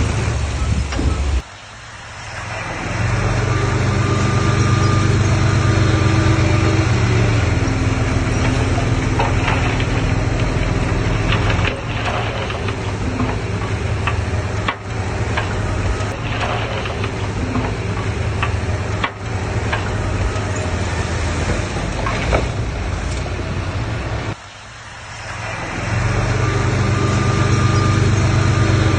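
Heavy diesel machinery engine running under load, dropping away suddenly twice and building back up, with scattered clanks and knocks in the middle stretch.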